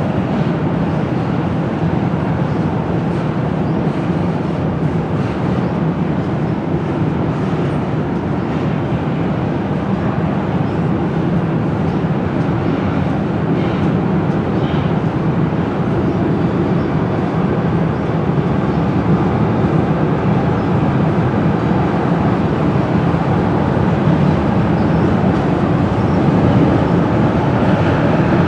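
A train rolling past with a steady, even noise that holds throughout, strongest in its low range, with no horn or separate clanks standing out.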